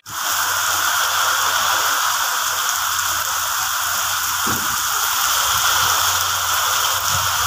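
Heavy rain pouring onto paving, a dense, steady hiss.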